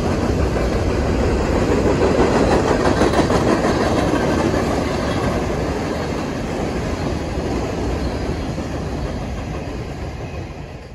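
Freight train of covered hopper cars rolling past, steel wheels running on the rails in a continuous rumble. It eases off over the last couple of seconds as the end of the train goes by.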